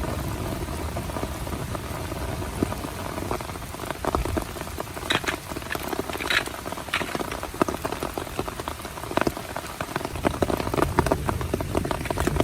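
Heavy rain pattering steadily on a small tent, a dense fizz of drops with a few sharper, louder drops scattered through the middle.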